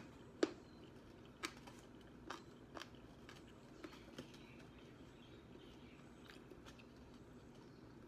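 Someone chewing a mouthful of spicy fried chicken with the mouth closed: about six sharp clicks and crunches in the first four seconds, then fainter ones.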